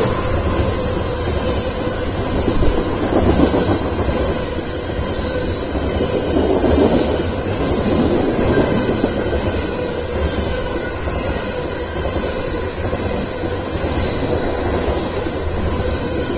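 Freight train of covered hopper cars rolling past at speed, a steady loud rumble and clatter of wheels on rail.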